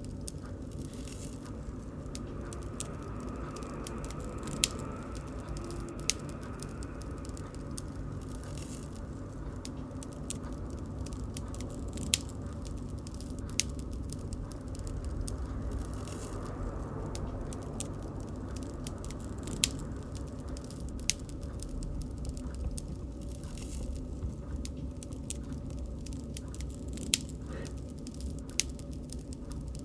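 Bonfire burning: a steady low rumble of the flames with irregular crackling, and sharp pops of the wood every few seconds.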